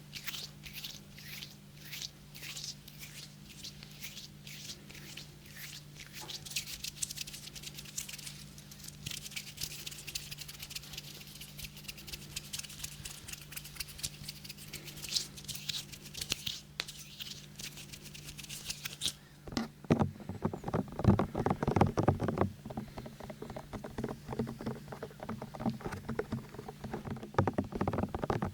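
Fingers tapping and rubbing right at a binaural microphone: quick, light, high-pitched brushing and patter at first, changing about two-thirds of the way in to fuller, lower taps and rubbing. A steady low hum runs underneath.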